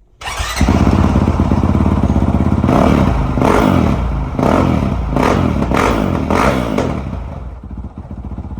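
Honda CRF450L single-cylinder four-stroke engine through a Yoshimura full exhaust with the spark-arrestor insert taken out, starting up and then revved in about six quick blips before easing back toward idle. It sounds a lot louder with the insert out.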